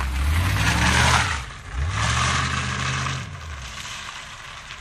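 1981 Corvette's 350 V8 with no mufflers, revved twice from idle, about a second apart, each time rising and falling back, then settling to idle.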